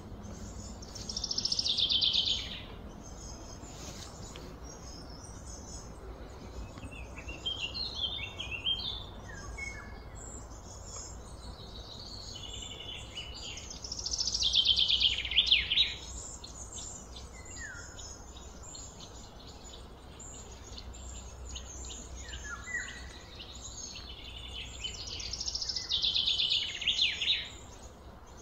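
Outdoor bird calls: a loud, fast-pulsed chirring call of about two seconds comes three times, roughly every twelve seconds, with scattered short high chirps between, over a faint steady low hum.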